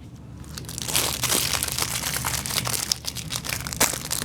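Packaging crinkling and rustling as it is handled, starting about a second in, with scattered sharp clicks.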